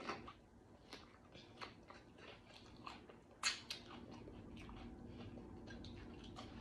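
Close-up mouth sounds of a person eating sausage and cucumber: a bite at the start, then faint irregular wet chewing clicks and crunches, with one louder click about three and a half seconds in.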